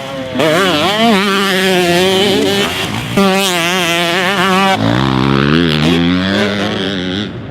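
Husqvarna TC125 125cc two-stroke motocross engine being ridden hard, its pitch rising and falling quickly with the throttle. The sound jumps abruptly about three seconds in and drops to a lower, steadier pitch about five seconds in.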